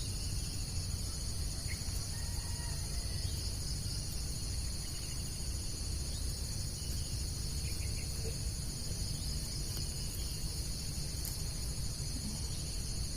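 Steady, unbroken high-pitched chorus of insects, with a few faint bird chirps and a low rumble underneath.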